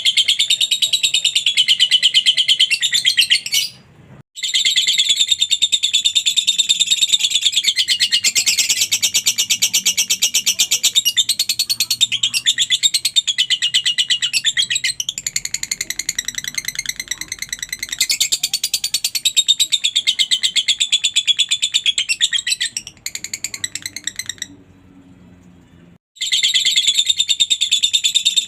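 Lovebird singing its long, rapid, high chattering trill, the 'ngekek' song. It breaks off briefly about four seconds in and pauses for a couple of seconds a few seconds before the end.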